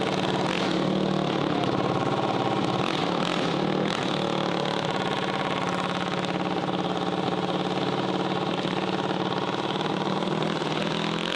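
Mini bike engine running steadily at idle.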